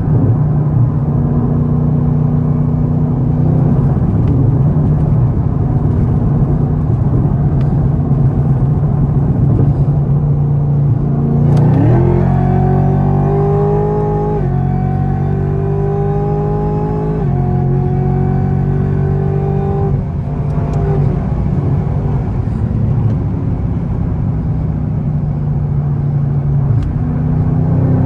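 Camaro ZL1's supercharged V8 running steadily at speed. About eleven seconds in it revs up hard and accelerates through a run of upshifts: the pitch climbs, drops back at each shift roughly every two to three seconds, and then settles back to a steady drone.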